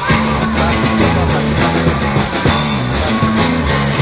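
Live rock band playing an instrumental passage: electric guitar, bass and drum kit, with a steady beat and a moving bass line.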